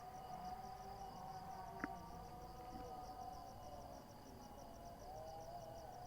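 Insects chirping in a fast, even pulse, faint, with a long held, wavering tone that is distant and bends in pitch about five seconds in, fitting a call to prayer sung over a far-off loudspeaker. A single sharp click about two seconds in.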